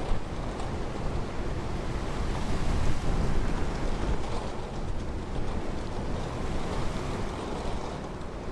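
Ocean surf on a beach: a steady rush of breaking and washing waves, swelling to its loudest about three seconds in.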